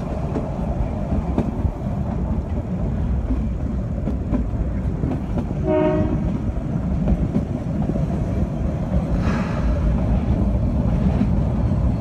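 Narrow-gauge train carriage running along the track with a steady low rumble, heard from on board. There is one short horn blast about halfway through, and a brief hiss a few seconds later.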